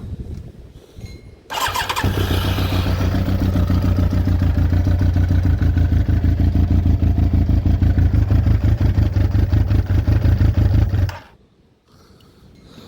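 Yamaha YZF1000R Thunderace's inline-four engine starting about one and a half seconds in, running steadily with an even pulsing for about nine seconds, then cutting out suddenly.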